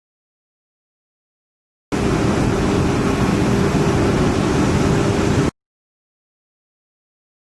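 Silence, then, about two seconds in, a loud steady rush of machinery noise with a low hum that lasts about three and a half seconds and cuts off abruptly, followed by silence.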